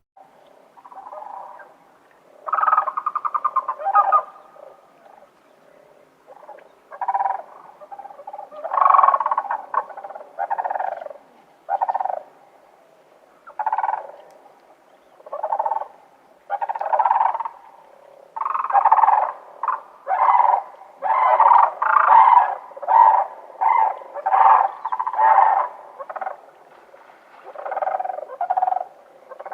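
An animal calling over and over in short, rough calls, one or two a second, becoming denser and overlapping in the second half.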